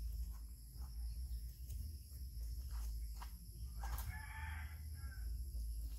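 A single bird call about four seconds in, lasting about a second, over a steady low rumble and scattered light clicks.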